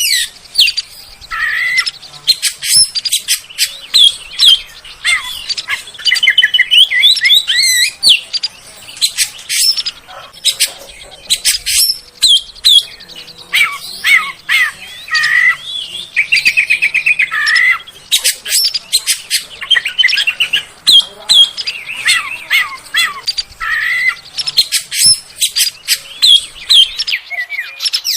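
Oriental magpie-robin (kacer) singing a fast, varied stream of whistles and sharp chirps, with a quick trill about sixteen seconds in. It is a lure song, played to stir caged kacer into singing.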